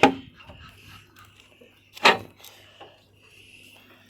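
Two sharp knocks about two seconds apart, like a wooden door or gate being knocked or bumped.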